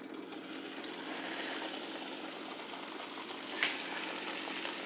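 Floured hog maw pieces frying in a pan of hot grease: a steady sizzle that builds over the first second or so as the pieces settle into the oil, with a sharp click about three and a half seconds in.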